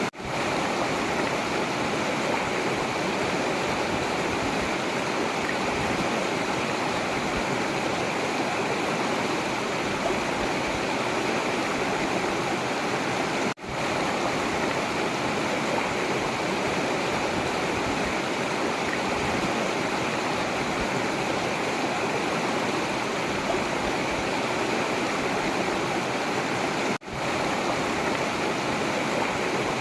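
River water flowing steadily over rocks, an even rushing. It cuts out for a split second about halfway through and again near the end, then fades straight back in.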